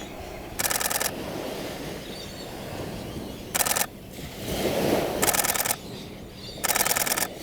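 Canon 7D Mark II DSLR shutter firing in continuous-shooting bursts, four quick rattles of clicks each lasting under a second. Surf breaks on the beach underneath, swelling once in the middle.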